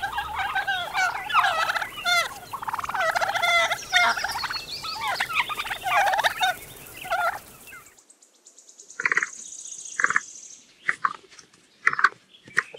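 Turkeys gobbling: many rapid, warbling, rattling calls overlapping one another. About eight seconds in, the sound cuts to a quieter track with a few short, separate calls about a second apart.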